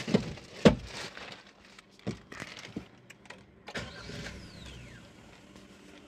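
Maruti Suzuki Jimny's 1.5-litre K15B four-cylinder petrol engine starting: two loud thumps right at the start and scattered clicks, a short falling whine about four seconds in, then the engine idles quietly.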